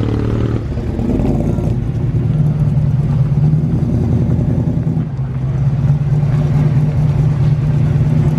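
Classic Ford Falcon sedan's engine running at a low, steady idle as the car creeps slowly away, loud and even for most of the stretch.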